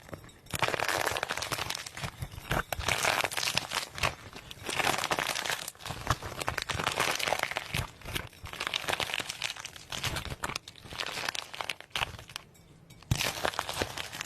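Crinkling, rustling noise in irregular bursts, like something being crumpled or handled close to the microphone, with a short lull near the end.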